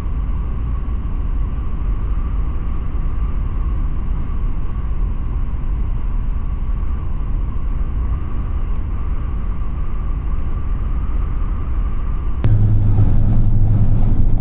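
Car driving, with a steady low rumble of road and engine noise and a faint steady hum. About twelve seconds in, the sound shifts abruptly to a louder, fuller rumble.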